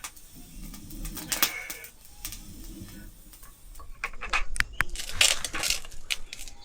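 Low bird cooing, twice in the first three seconds, then a couple of seconds of clattering and rustling.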